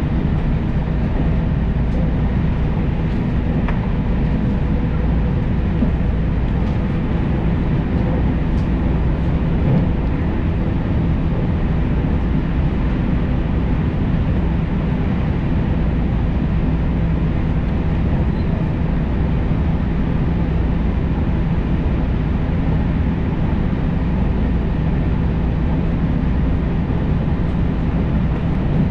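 Steady running noise of a JR Tokaido Main Line electric train heard from inside the carriage: a low rumble of wheels on rails, with a few faint steady tones above it.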